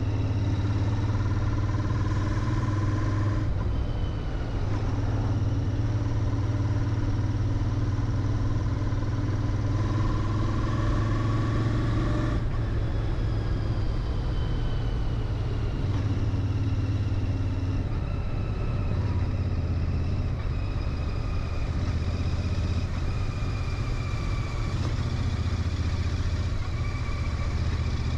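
Royal Enfield Interceptor 650's parallel-twin engine running through its stock exhaust as the bike cruises, a steady low drone at fairly constant revs.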